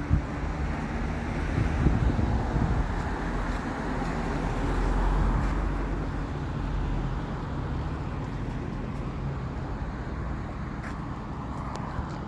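Bucket truck's engine running steadily, with a few faint clicks near the end.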